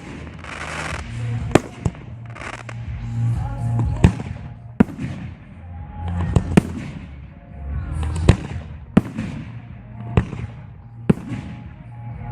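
Firework display: aerial shells bursting in about nine sharp bangs spaced irregularly, with hissing and crackling between the bursts, over music with a steady low bass.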